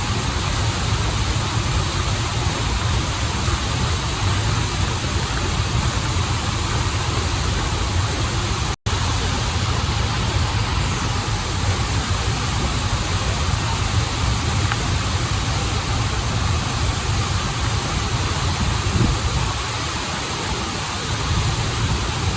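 Waterfall and river water rushing steadily with a strong low rumble, cutting out to silence for an instant about nine seconds in.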